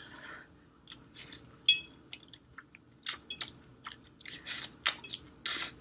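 A person chewing a mouthful of Korean fire-chicken spicy instant noodles, close to the microphone: a series of short, irregular wet smacks and clicks.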